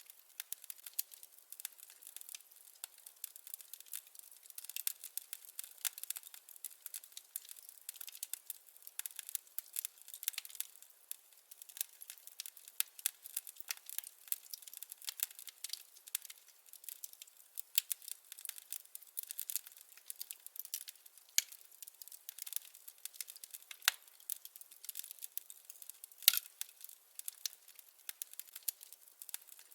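Wood fire crackling: a dense, steady run of small snaps and pops with a few louder, sharper pops scattered through. There is no low rumble of flame under it.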